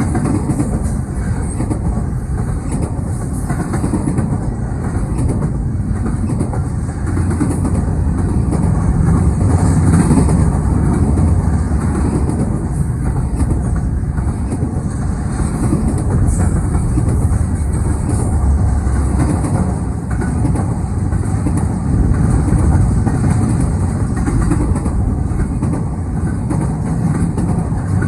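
Train cars rolling past on the track: a steady loud rumble with wheel clatter, no horn.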